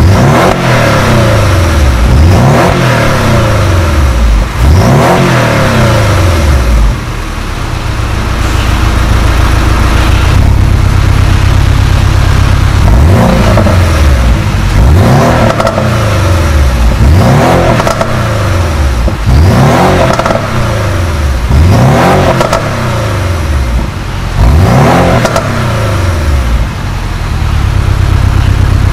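Porsche 718 Boxster S's turbocharged flat-four revved repeatedly while standing, heard at the tailpipes with the exhaust valves open (Sport mode). Each rev rises and falls in pitch, about two seconds apart, with a few seconds of idle in the middle before another run of revs.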